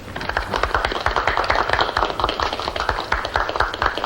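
A group of people applauding: dense, irregular hand clapping that swells in the first second and keeps going.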